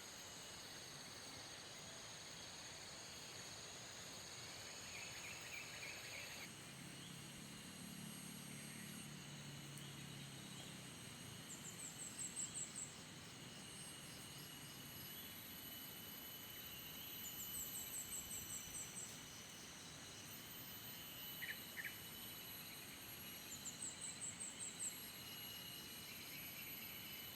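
Outdoor chorus of calling insects: several steady high-pitched trills, with a quick pulsed chirp of about half a dozen notes that comes three times and stands out over the rest.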